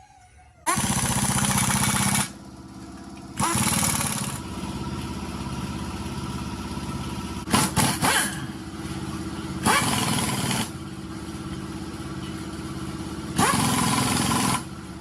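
Car engine catching under a second in and running steadily, with several loud stretches where it is revved.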